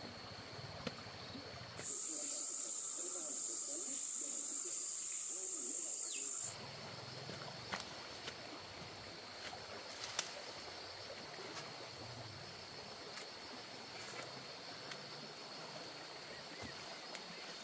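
An insect buzzes, high-pitched and steady, for about five seconds, starting and stopping abruptly. Under it runs a fainter steady high whine, with scattered small clicks.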